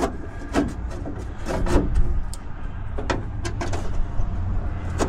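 Scattered clicks and light knocks of small metal hardware and tools being handled at a Jeep door, over a steady low rumble.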